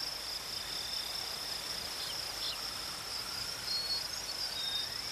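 Steady high-pitched chorus of crickets, with a few faint, short bird whistles in the second half.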